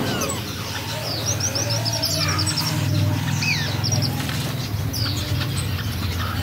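Several caged finches chirping and calling, with short high chirps, a quick run of them about a second in, and falling call notes. A steady low hum runs underneath.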